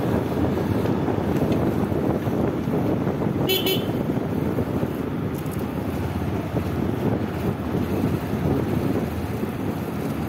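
Steady wind rumble and motorcycle riding noise on the rider's microphone, with a brief high-pitched toot about three and a half seconds in.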